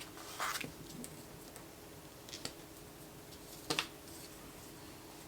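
A few brief rustles and taps of paper and sticker sheet being handled as a planner sticker is peeled up and repositioned. The loudest comes a little before four seconds in, over a faint steady hum.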